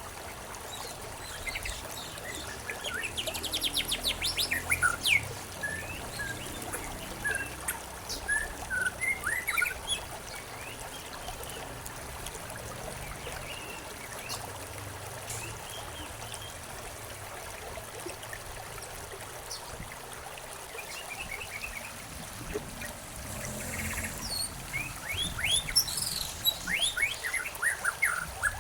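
Several songbirds chirping and trilling over a steady trickle of running water, the calls coming in busy clusters near the start and again near the end with a quieter stretch between.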